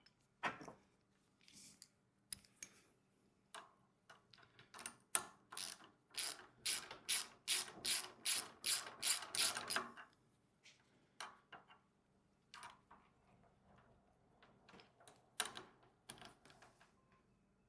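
Hand ratchet wrench tightening a bolt on the compactor's throttle mount, in a run of quick clicking strokes with a few scattered strokes before and after.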